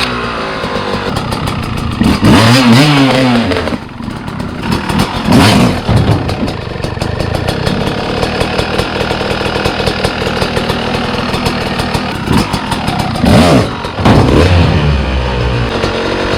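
Dirt bike engine running, revved up and back down three times: about two seconds in, around five and a half seconds, and again near the end, as the rider pops the front wheel up onto a file cabinet.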